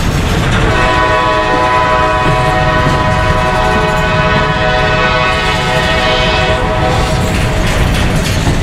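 Locomotive air horn blowing one long chord of several notes for about six seconds, over the low rumble of a passing train, then sounding again near the end.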